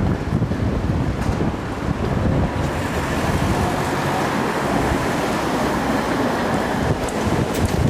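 Gale-force wind from the windstorm Kyrill buffeting the microphone in heavy low gusts, with a broader rushing swell about three seconds in.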